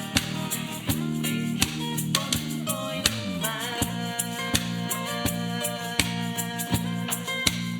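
Band playing a pop song: guitars over a steady percussion beat, with a sliding pitch about three seconds in.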